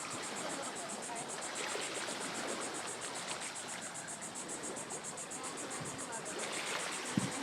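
Insects trilling steadily in a high, even pulse of about five beats a second, over a constant wash of water noise. A short low knock comes near the end.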